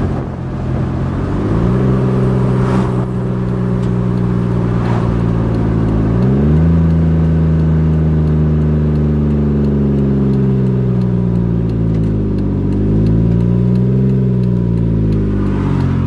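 Loud 3.6-litre Pentastar V6 of a 2012 Jeep Wrangler running with no exhaust past the catalytic converters, heard while driving. The engine note climbs, changes sharply about six seconds in, then holds fairly steady with a brief dip and rise near the end.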